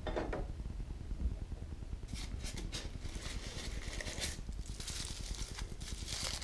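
Packaging being handled, rustling in irregular bursts from about two seconds in, over a steady low hum.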